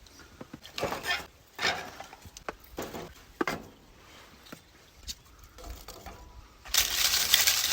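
A few scattered knocks and clatters of objects being handled, then a loud continuous rustling noise that starts near the end.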